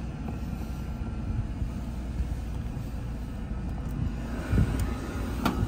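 Mercedes-Benz engine idling smoothly on a cold start, a steady low hum heard from inside the cabin. A couple of soft knocks come near the end.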